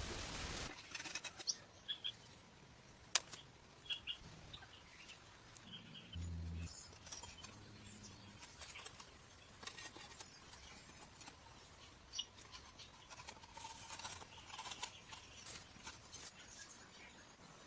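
Sparse sharp clicks and rustles with brief high bird chirps, opening on a short loud burst of noise and with a short low hum about six seconds in.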